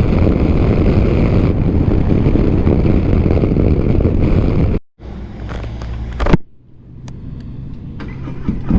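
Motorcycle riding noise, wind rush and engine running at speed, picked up by a helmet microphone. About five seconds in it cuts off abruptly; a quieter steady engine hum follows with one sharp knock, then a few seconds of low noise with faint clicks before the loud riding noise returns near the end.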